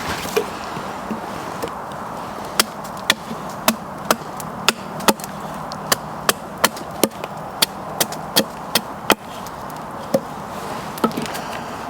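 A series of sharp strikes on wood, like wood being chopped or knocked: about fifteen hits at roughly two a second, then two more spaced apart near the end.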